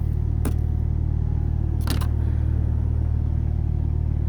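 Two short scrapes of an ice scraper across iced-over car glass, about half a second and two seconds in, over the steady low hum of the car's idling engine.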